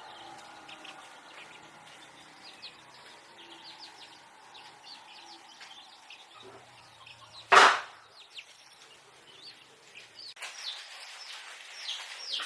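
Small birds chirping repeatedly throughout, growing busier near the end, with one loud sharp knock about seven and a half seconds in.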